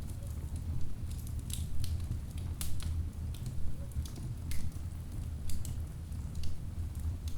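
Wood fire burning in a fireplace: a low steady rumble of flames with irregular sharp crackles and pops from the logs, a few each second.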